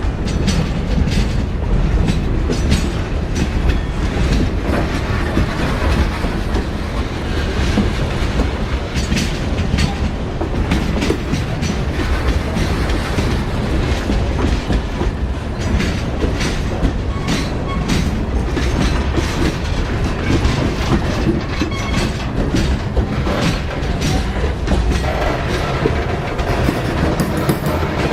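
A train rolling past, its cars' wheels clicking and clattering over rail joints in a steady heavy rumble.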